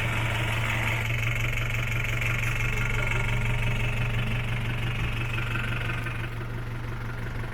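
Isuzu Elf mini dump truck's 4BE1 four-cylinder diesel engine idling steadily.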